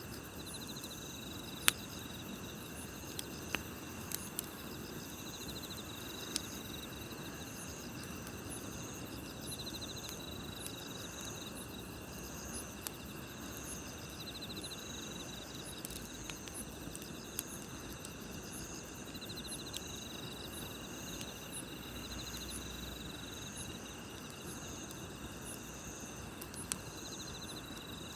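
Night insects such as crickets chirping in several steady, evenly repeating high trills over a campfire's soft hiss, with a few sharp pops and crackles from the burning wood, the loudest about two seconds in.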